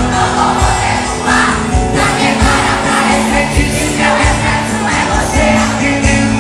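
Live sertanejo pop music played loud by a band with a steady beat, with a crowd of voices singing along.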